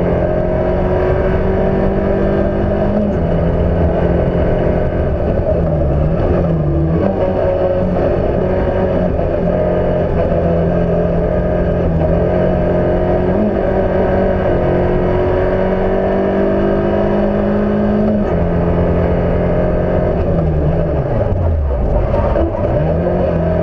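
Fiat Cinquecento's engine heard from on board, driven hard around a circuit, its revs holding and shifting between gears. Twice, about a quarter of the way in and near the end, the revs drop sharply and climb again.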